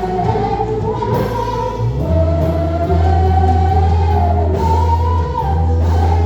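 Gospel praise music: voices sing a sustained melody over guitar and bass, with the bass growing heavier about two seconds in.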